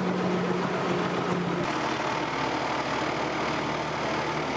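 Tour boat's motor running steadily under a wash of water and wind noise; its low engine note shifts about one and a half seconds in.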